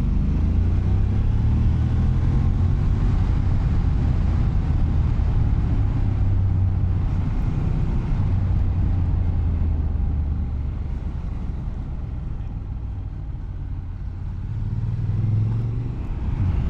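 Motorcycle engine running while riding, a steady low drone that eases off a little in the middle and picks up again near the end.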